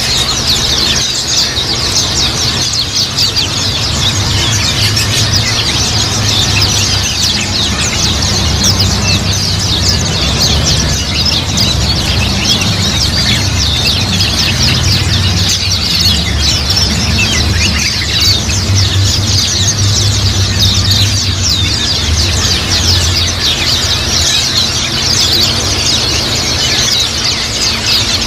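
A flock of white-eyes (pleci) chirping and twittering together in a dense, unbroken stream of short high calls, over a steady low hum.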